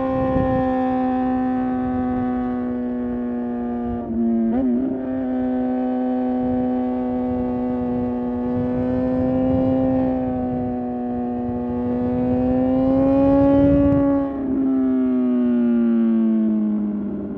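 Suzuki GSX-R750 inline-four engine running at a steady high rpm. Its pitch wobbles briefly about four seconds in, climbs a little later on, then drops and falls away near the end as the throttle closes.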